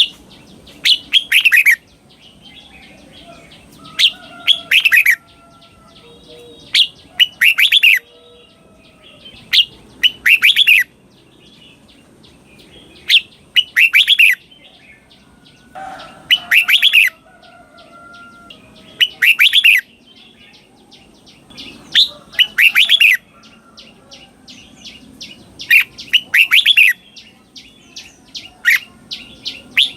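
Red-whiskered bulbul singing the same short, bright phrase over and over, about every three seconds, each phrase doubled (sung twice in quick succession), the 'double' song style prized by Thai bulbul keepers. Fainter chirps fill the gaps between phrases.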